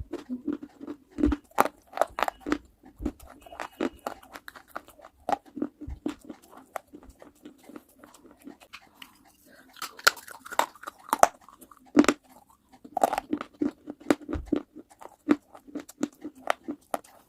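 A person biting and chewing hard, brittle pieces in the mouth: a string of sharp, irregular crunches, densest about ten to thirteen seconds in.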